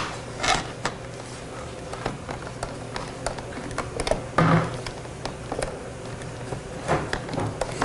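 Scattered light clicks and taps with a few short scuffing sounds over a steady low hum, typical of small objects being handled on a workbench.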